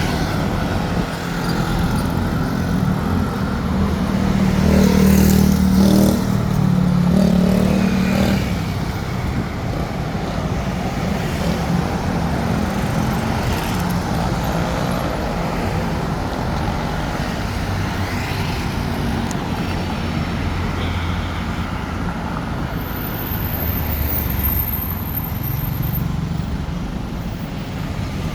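Road traffic with vehicle engines running by, and one vehicle passing close and louder about four to eight seconds in.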